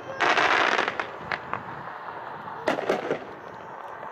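Dakota Double consumer aerial firework going off, its shells breaking loudly overhead. A dense burst comes just after the start, then two single pops, then a quick cluster of bangs about three seconds in.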